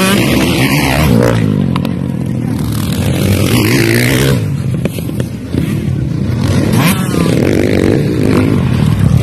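Motocross dirt bike engines revving, their pitch rising and falling again and again.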